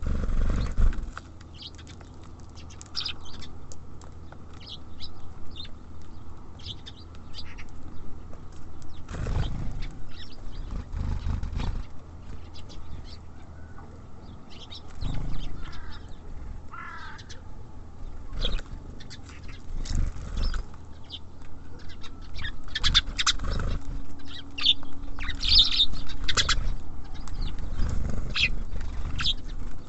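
Small songbirds at a bird feeder: frequent short chirps and calls, with wing flutters and dull knocks as they land, hop and peck on the feeder. A quick run of notes comes about halfway through, and the chirping grows busier near the end.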